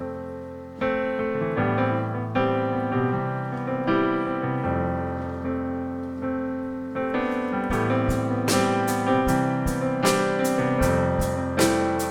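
Keyboard playing slow, held piano chords as a song's introduction. About seven seconds in, a steady beat of short percussive strokes comes in, about two a second.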